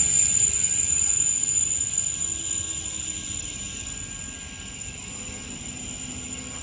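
Caltrain Stadler electric multiple-unit train running along the track and fading away as it moves off, a loud rushing rail noise that dies down steadily from about two seconds in, with a faint low hum slowly dropping in pitch.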